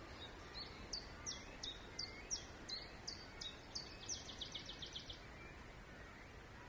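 A songbird sings one phrase of separate high notes, speeding into a fast trill of about ten notes near the end, over a steady low background hum.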